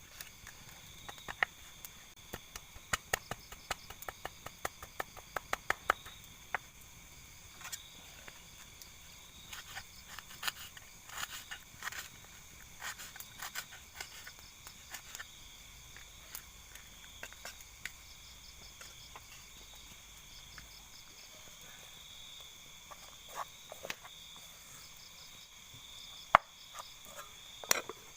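Steady night chorus of insects and frogs, heard as a constant high-pitched trill. Many sharp clicks and taps fall over it, most of them in the first half, with one loud knock near the end.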